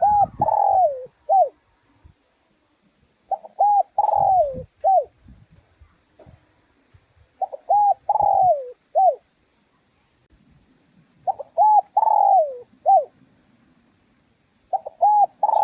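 Spotted dove cooing: a repeated phrase of two short coos, a longer falling coo and a short closing note, coming about every four seconds.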